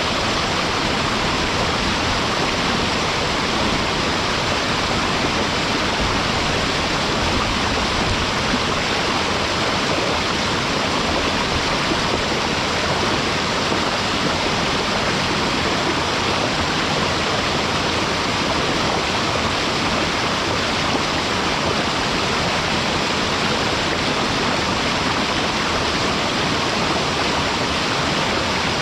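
Waterfall: water pouring and splashing into a mountain stream, a steady, unbroken rush close to the microphone.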